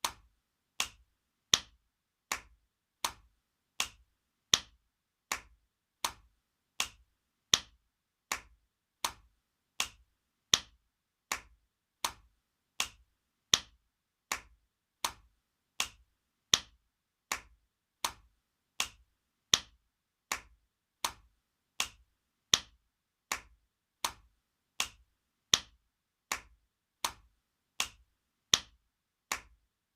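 Spanking sound effect: sharp hand slaps repeated at an even pace, about four every three seconds, some louder than others.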